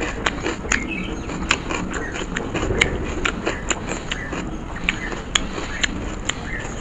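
Close-miked chewing: irregular sharp crunches and wet mouth clicks, about two or three a second, from chewing a bite of raw onion.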